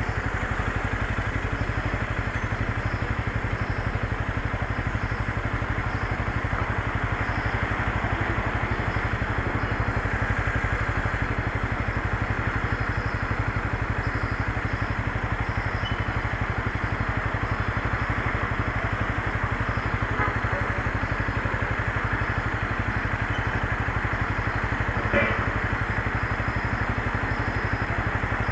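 Motorcycle engine running steadily under a constant rushing noise, with no change in pitch. A single sharp click comes near the end.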